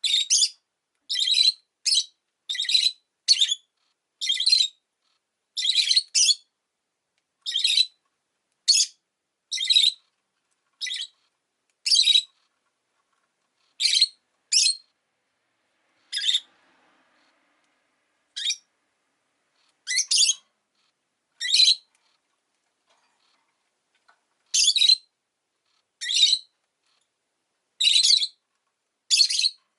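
Rosy-faced lovebird giving short, high-pitched chirps, roughly one a second, with two brief pauses of a couple of seconds.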